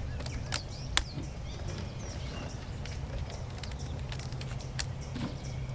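Rubber bands being stretched around a watermelon, with a few sharp snaps, about half a second in, at one second and near the end. Birds chirp faintly over a steady low outdoor background.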